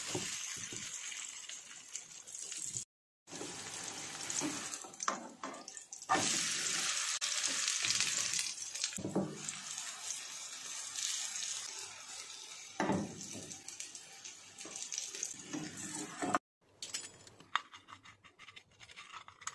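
Corn-and-egg batter sizzling in oil in a nonstick frying pan on a low flame: a steady hiss with a few spatula scrapes and taps. Near the end, a knife clicks against a ceramic plate as the cooked corn snack is cut.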